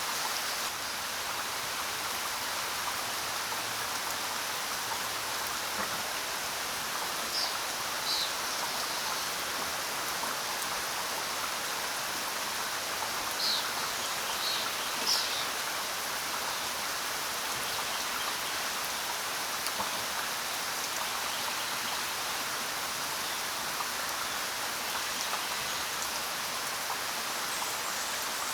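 Steady rain falling. A few short, high bird chirps come through it in the first half.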